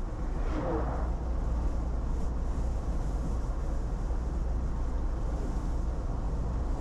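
Steady rumble of a car's tyres and engine heard from inside the cabin while driving at road speed.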